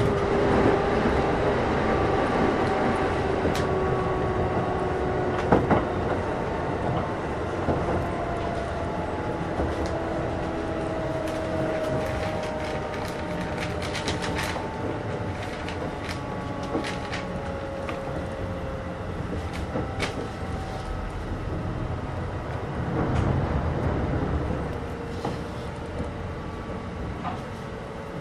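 Kintetsu 8600 series electric train running, heard from inside the car: rumble of the wheels on the rails with scattered clicks, while the motor whine glides slowly down in pitch and the sound eases off as the train slows. A brief low swell of rumble comes near the end.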